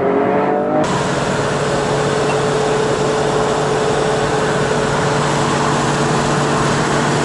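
A Toyota GR Yaris's three-cylinder engine revving up with rising pitch, cut off sharply just under a second in. It is followed by the steady drone of a classic Ford Mustang cruising, heard from inside the cabin: a constant engine hum under loud wind and road noise.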